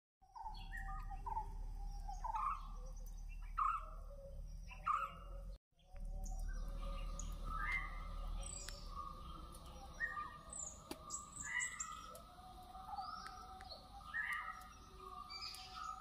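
Several wild birds calling, a string of short chirps and rising notes from different birds over a steady low background rumble. The sound drops out briefly about five and a half seconds in.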